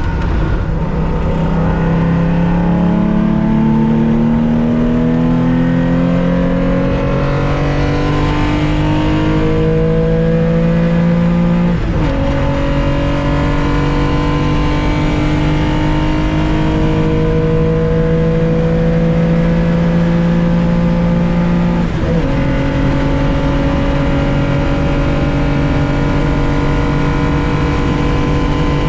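1965 Porsche 911's air-cooled 2.0-litre flat-six under full throttle, heard from the cockpit, its pitch climbing steadily as it accelerates. It upshifts twice, about twelve and twenty-two seconds in, and each gear pulls longer than the last.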